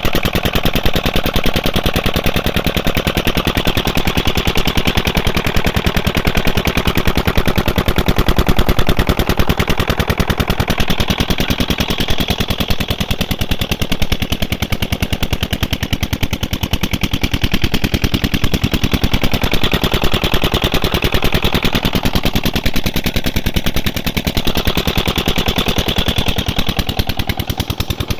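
Old diesel engine running steadily, driving a tubewell water pump, its exhaust beating in a fast, even rhythm.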